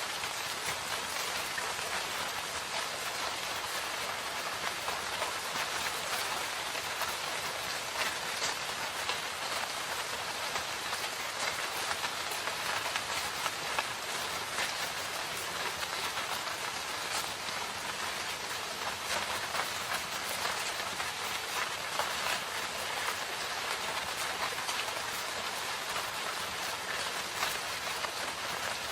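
Steady rain falling, a continuous hiss with many individual drops pattering and ticking on surfaces.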